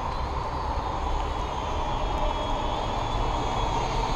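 Steady hiss of falling rain, with the faint high whine of a Syma X5C toy quadcopter's small brushed motors in flight.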